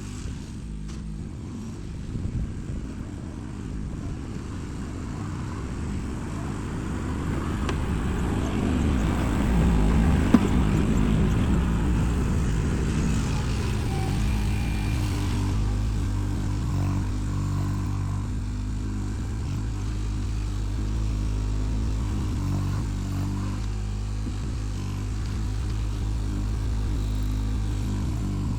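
Engine of a dirt-moving machine running under load while working soil. It grows louder and rougher about a third of the way in, with one sharp knock, then settles to a steady run.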